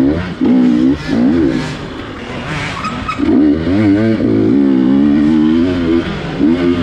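250cc GasGas dirt bike engine revving under the rider's throttle: a few short blips in the first second and a half, then a longer pull from about three seconds in with the pitch wavering up and down, and one more short blip near the end.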